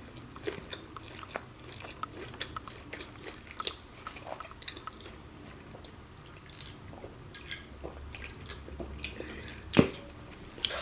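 A person chewing food, with many small wet mouth clicks and smacks; one sharper, louder click near the end.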